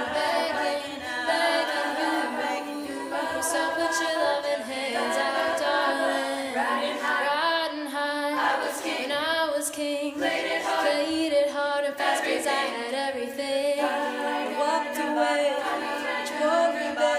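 A cappella vocal group singing in layered harmony, voices only with no instruments.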